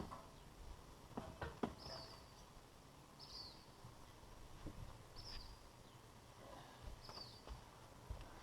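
A small bird calling faintly: a short high chirp that falls in pitch, repeated about every one and a half to two seconds, with a few faint clicks in the first couple of seconds.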